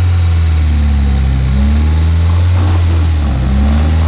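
Off-road vehicle's engine running at low revs under load, with the pitch dipping briefly and recovering twice.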